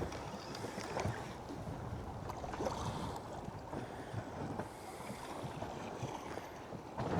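Sea water lapping and sloshing against the side of a small boat, with wind noise on the microphone and a few faint knocks.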